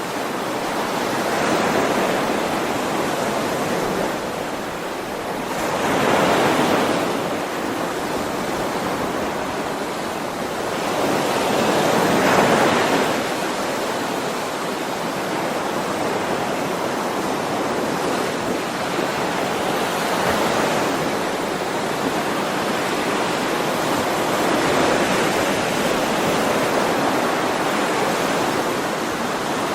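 Ocean waves breaking and washing on the shore: a continuous rush of surf that swells and falls back every six to eight seconds.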